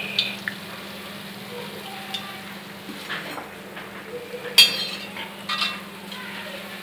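Battered bread slices frying in hot oil in an iron kadai, with a stainless-steel perforated skimmer knocking and scraping against the pan a few times; the sharpest clank comes about two-thirds of the way in.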